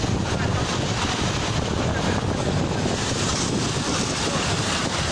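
Strong wind buffeting the microphone: a loud, steady, unbroken rush of noise, heaviest in the low end.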